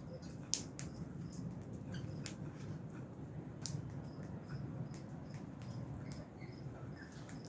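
Lovebirds in an aviary: scattered sharp clicks, the loudest about half a second in, with a few faint short chirps over a low steady hum.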